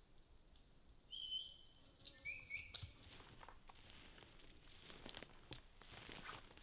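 Three short, high chirps of a small bird in the first three seconds, then faint crackling and rustling of footsteps through forest brush and twigs.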